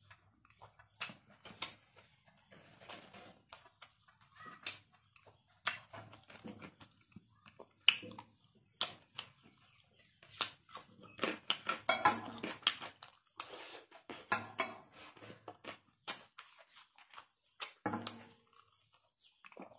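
Close-up eating sounds: irregular wet mouth clicks and smacks as a mouthful of rice, fried duck egg and cucumber is chewed, busiest about two-thirds of the way through.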